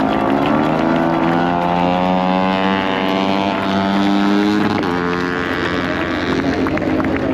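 Racing motorcycle engines running on the circuit. The high engine note slides slowly down in pitch, then breaks to a new pitch about five seconds in.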